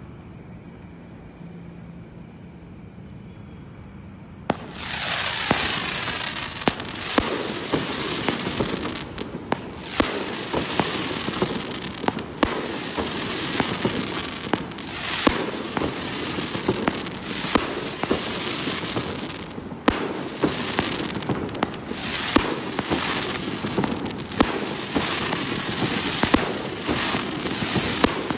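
A 1.2-inch, 100-shot fireworks cake firing: after a quiet lead-in it starts suddenly about four and a half seconds in and goes on as a rapid, continuous barrage of shots and bursts, with brief lulls around nine and twenty seconds in.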